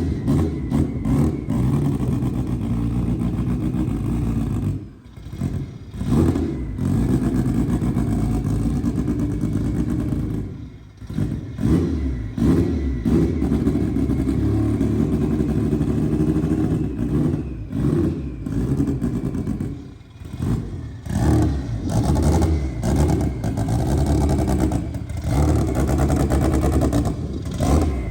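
Turbocharged Honda B-series four-cylinder engine in an EK Civic, revving and pulling under load as the car is driven. The sound drops out briefly about 5, 11 and 20 seconds in, where the throttle comes off, then picks up again.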